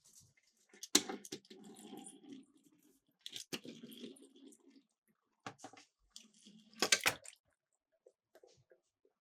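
Miniature toy cars clacking and rolling on a plastic slope, in three runs a few seconds apart. Each starts with a sharp clack and runs on as a rough rattle for a second or two, with a few light taps near the end.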